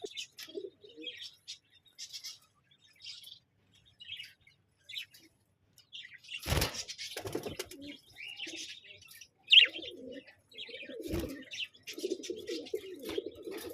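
A pair of spangle budgerigars chirping and chattering in short, scattered calls, with a couple of sudden thumps about halfway through and again near the end, like wing flaps or knocks against the cage.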